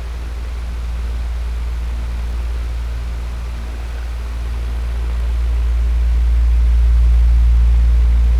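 Electric fan running: a steady low hum under an even rush of air, slowly swelling louder toward the end.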